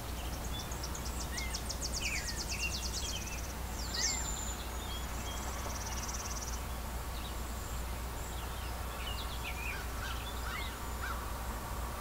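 Several birds singing a morning chorus at normal speed: scattered quick chirps and a couple of fast, high trills, over a steady low hum.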